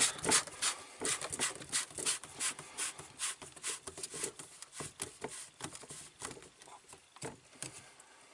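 Handling of plastic plumbing parts: irregular clicks, taps and knocks, several a second, growing sparser and quieter toward the end.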